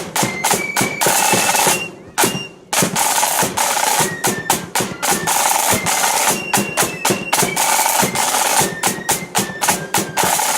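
Marching flute band's snare drums playing fast rolls and sharp accented strikes, with deeper drum hits under them. They break off briefly about two seconds in, then carry on.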